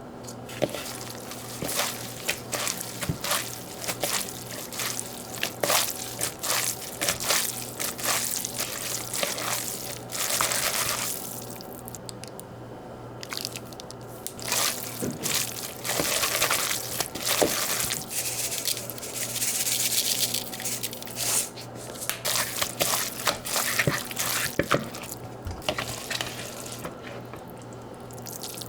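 Water running from a kitchen tap in three short spells, with drips and many light knocks and clicks of things being handled in the sink.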